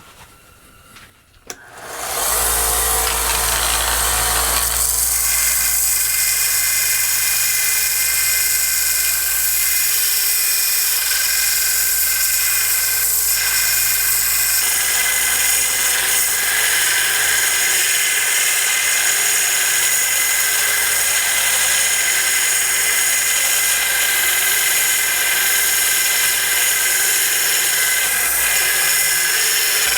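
A power tool starts up about two seconds in and runs steadily, sanding down a steel pin with a steady high hiss over the motor's hum.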